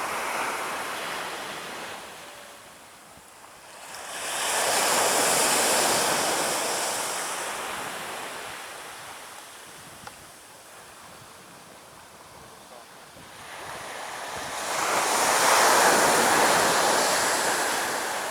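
Ocean waves breaking on the beach, the surf washing up loudly twice, about ten seconds apart, and fading between the breaks.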